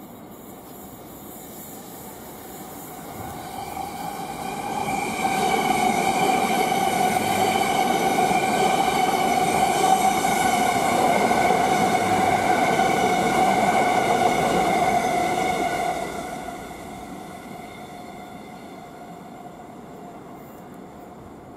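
A train passing along the line, a steady high whine over the rumble of the wheels. It builds over a couple of seconds, stays loud for about ten seconds, then fades away.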